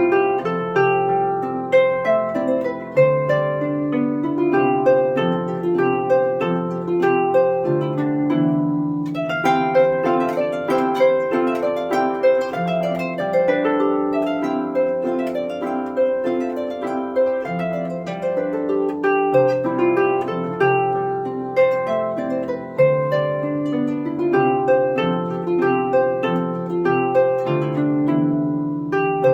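Celtic harp played solo: plucked melody notes over a bass line, each note ringing on after the pluck.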